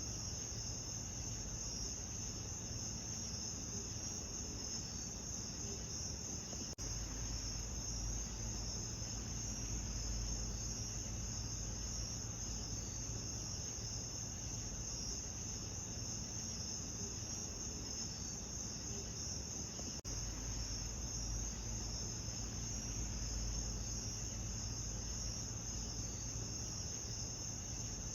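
A steady night chorus of crickets: a continuous high trill over a low rumble, with a brief dip about seven seconds in and another near twenty seconds where the loop is joined.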